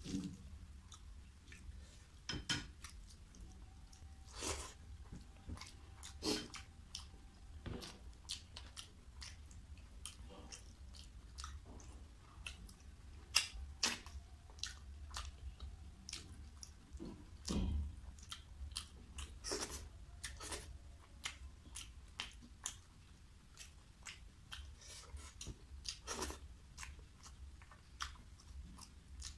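Close-up chewing and wet mouth smacks of a person eating rice and curry by hand, a run of irregular short clicks, over a steady low hum.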